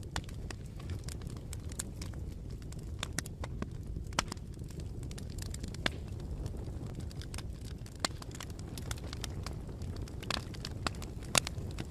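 Bonfire burning, with irregular sharp crackles and pops over a steady low rumble of the flames; one pop stands out louder near the end.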